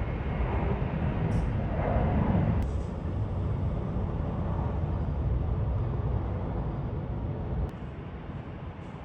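Steady low rumble of a moving vehicle heard from inside, dropping suddenly in level about three quarters of the way through.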